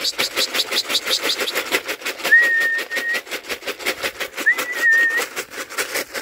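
A person whistling to call a racing pigeon into the loft: two level whistled notes, each under a second long, a couple of seconds apart, over a fast even rattle of about seven or eight ticks a second.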